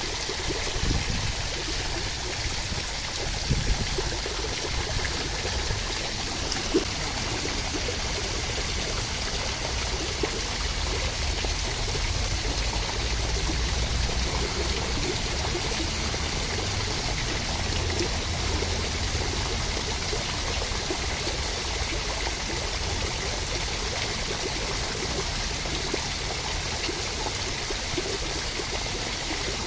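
Steady rushing water, a continuous even hiss with a deep rumble underneath, as in a rain or stream recording for sleep.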